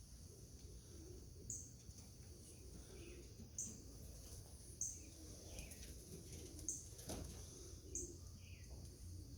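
Wild birds calling in the early morning: a short, high chip repeated every second or two, with fainter falling chirps between, over a low steady background. A single sharp click comes about seven seconds in.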